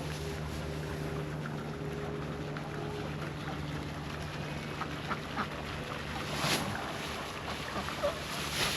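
Ducks quacking, a few short calls in the second half, over a steady low hum.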